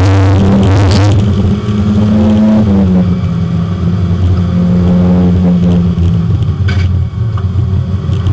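Porsche 924 race car's engine running hard, heard from inside the car on track, its note dropping in steps about three seconds in and again about six seconds in. A rushing noise rides over it through the first second.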